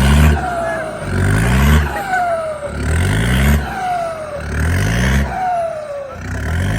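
Dump truck's Hino J07E turbo diesel revved in repeated bursts about every second and a half, each rev rising in pitch and followed by a falling turbo whistle as it spools down.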